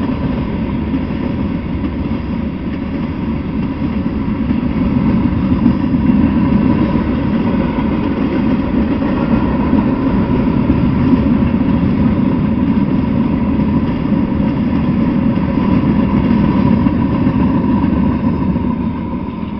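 Freight train cars rolling past on steel rails: a loud, steady rumble of wheels on track, with a faint steady tone running through it. It starts to fade near the end as the tail of the train goes by.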